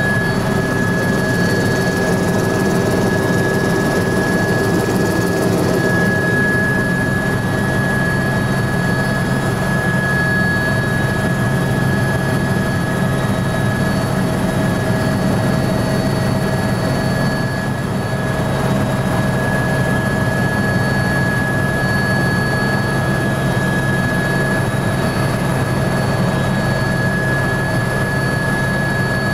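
Helicopter in flight heard from inside the cabin: a steady high turbine whine over a constant rotor and engine drone.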